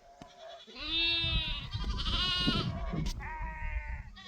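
Herd animals bleating: a long, loud bleat about a second in, running into a second one, then a shorter, higher bleat near the end.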